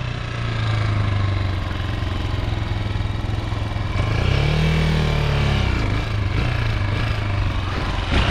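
Chinese 250cc dirt bike engine running, revved up and back down once about four seconds in. Its rider says the bike lacks power and bogs when he tries to wheelie it.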